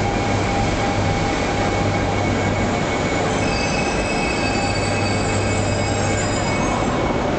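Max Toki double-decker Shinkansen train moving along the station track: a steady, loud rolling rush with a low hum, joined about three seconds in by thin high squealing tones from the wheels.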